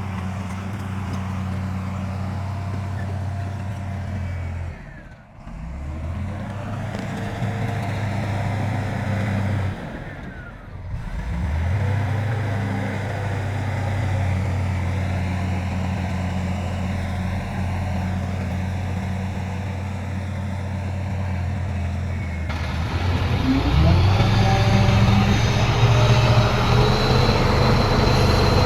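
Heavy diesel earthmoving machinery running steadily, with two brief drops in level in the first half. Near the end the engine revs up and a high metallic squealing joins it.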